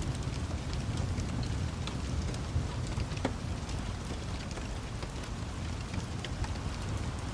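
Steady rain with a low rumble underneath, scattered with sharp crackles and pops from a wood fire.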